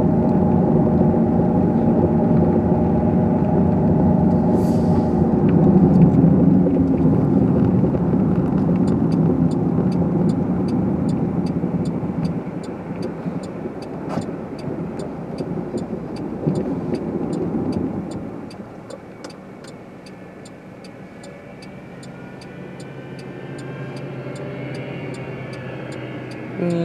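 Car engine and tyre noise heard from inside the cabin, louder for most of the stretch and then easing off as the car slows. A steady fast ticking, about two ticks a second, runs through the second half.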